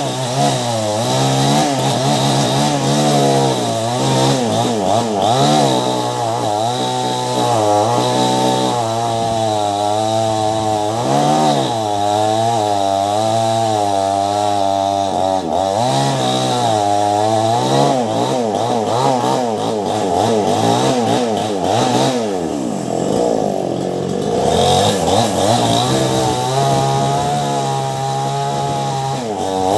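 Ryu two-stroke chainsaw with a STIHL chain cutting through the thick trunk of a mango tree. The engine pitch keeps rising and dipping as the chain loads up in the wood. About two-thirds of the way through it drops lower and climbs back, then holds steadier near the end.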